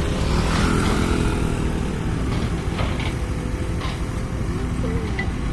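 Sumitomo hydraulic excavator's diesel engine running steadily, with a few faint clicks over it.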